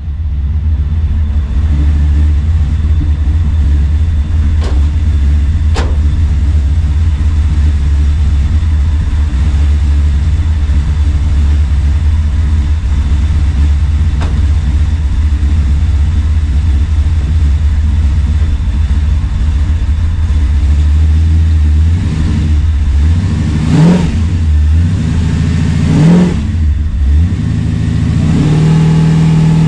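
Chevrolet C10 pickup's engine idling steadily, then revved up and down several times about 22 seconds in, settling into a higher, steadier drone near the end.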